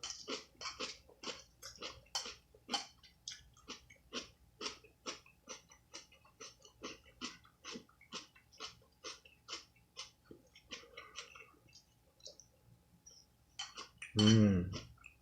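Close-up crunchy chewing of kimchi, about three chews a second, fading out about twelve seconds in. Near the end comes a short hum of the eater's voice.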